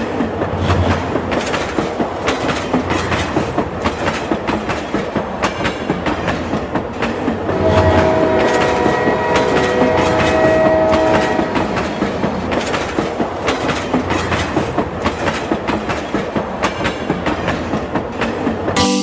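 Train sound: a steady, quick clickety-clack of wheels over rail joints, with a train horn sounding for about four seconds midway.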